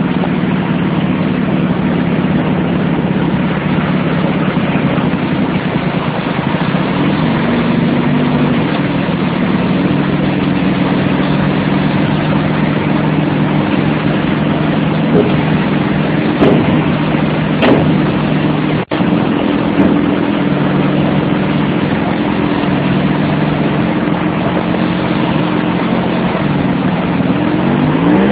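Motorcycle engine running at a steady, fairly even speed over road noise while riding, with one momentary cut-out about two-thirds of the way in. The engine pitch starts to rise at the very end as it picks up speed.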